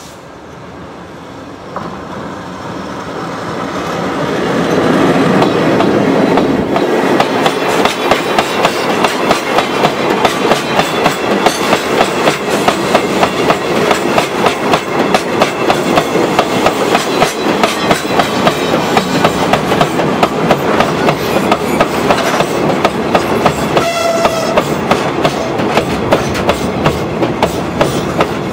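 A Chichibu Railway freight train hauled by a Deki 500-class electric locomotive passes close by. It grows louder over the first few seconds, then a long run of rapid, steady clickety-clack follows as the wagon wheels cross the rail joints. A brief tone sounds about three quarters of the way through.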